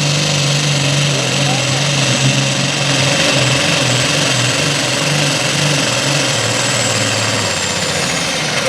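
Allis-Chalmers D21 super stock pulling tractor's turbocharged diesel running hard under load on its pull, with a steady low engine drone. A high turbo whine falls away near the end as it comes off the throttle.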